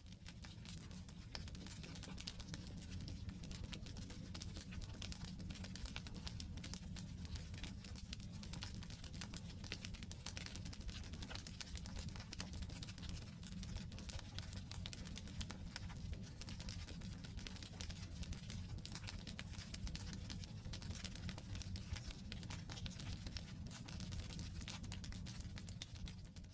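Wood campfire burning: a steady low rumble of the fire with dense, irregular crackling and popping of the logs. It fades in over the first second and fades out at the very end.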